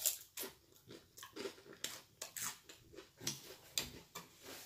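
A person chewing a mouthful of sushi roll close to the microphone: an irregular run of soft mouth clicks and crunches, about two or three a second.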